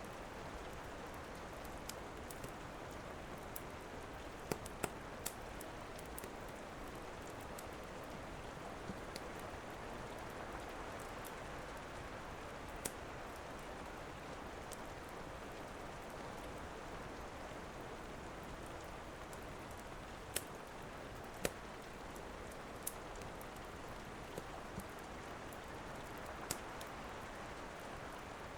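Steady rain hiss with a wood fire crackling, scattered sharp pops every few seconds.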